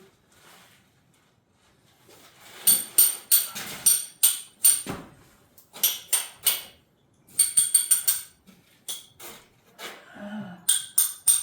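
Socket ratchet clicking in several short bursts of rapid, ringing metallic clicks as a fender bolt is turned.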